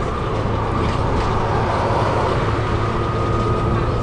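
Heard from inside a Volvo B7TL double-decker bus under way: the diesel drivetrain runs with a steady low drone and a thin, held whine over it, which a second lower tone joins about halfway through. Faint rattles come through as well. This steady groaning is the noise the bus is known for.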